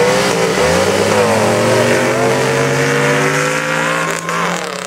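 Drag-racing engines at full throttle, accelerating hard down a sand drag strip; their pitch climbs about half a second in and then holds high and steady.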